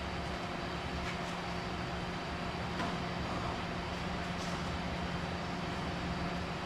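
Steady background hum and hiss of running machinery such as a fan, at an even level, with a few faint light knocks.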